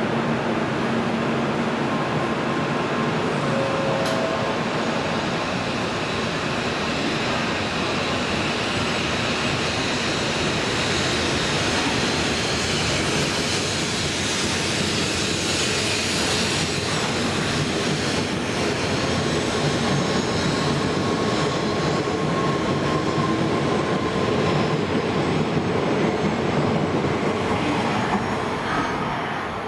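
N700-series Shinkansen pulling out along the platform, its cars running steadily past close by. The sound eases near the end as the last car goes by.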